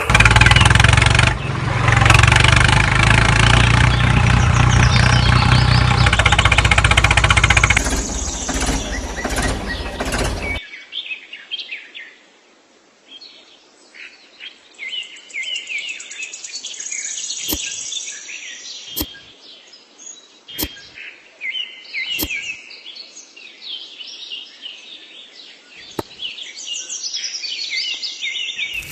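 A loud, dense sound with a steady low hum cuts off suddenly about ten seconds in. It is followed by birds chirping over and over, with a few sharp clicks.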